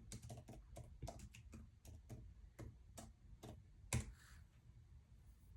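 Quiet, irregular clicking of typing on a keyboard, a few keystrokes a second, with one louder click about four seconds in.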